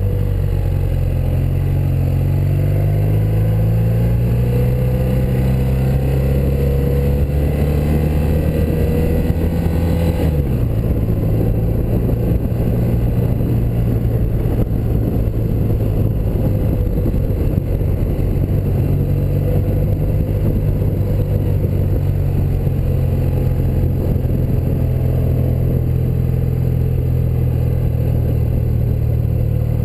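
1984 BMW R100RS's air-cooled flat-twin boxer engine running as the motorcycle is ridden, its pitch rising slowly for about ten seconds, dropping sharply about ten seconds in, then holding steady.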